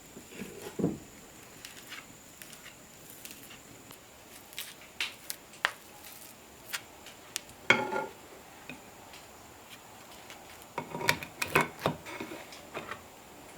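Scattered clicks and knocks of cooking utensils and dishes being handled, with a brief ringing clink about eight seconds in and a burst of clatter near the end.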